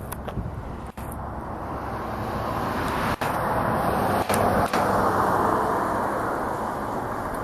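A road vehicle passing on the street, its tyre and road noise swelling to a peak about five seconds in and then easing off.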